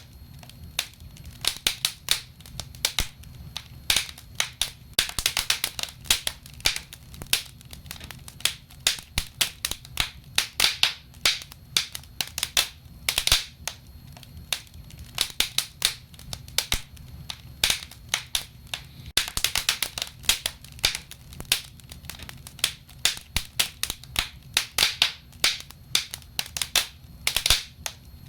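Wood fire burning in a fireplace: irregular sharp crackles and pops, some in quick clusters, over a low steady background.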